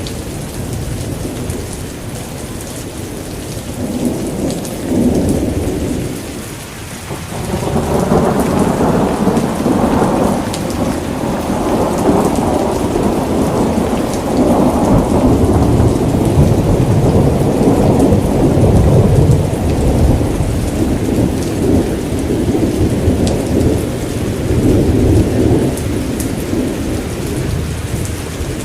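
Steady rain falling, with rolling thunder: a long low rumble swells up about a quarter of the way in, carries on through most of the stretch and eases off near the end.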